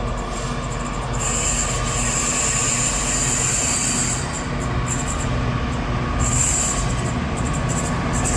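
Electric multiple-unit train running through the station, its motors humming steadily, with a high-pitched wheel squeal that comes and goes.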